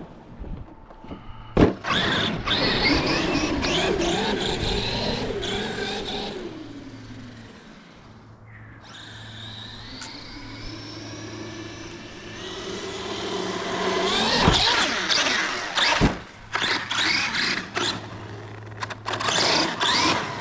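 Traxxas X-Maxx Ultimate RC truck's brushless motor and drivetrain whining as it speeds up and slows down in bursts through snow, with a few sharp knocks between. The clicking is a drivetrain fault the owner suspects is a bad gear in the rear differential.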